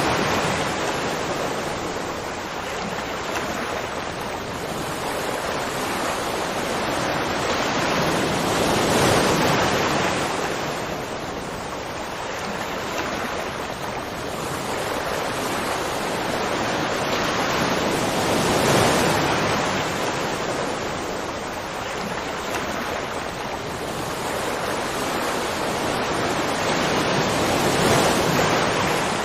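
Waterfall: a steady rush of falling water that swells and eases slowly, peaking about every nine seconds.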